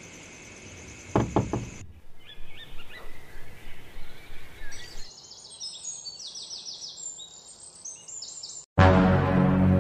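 Birds chirping over a faint outdoor background, with a couple of soft knocks about a second in. Near the end, loud music cuts in with a steady low drone.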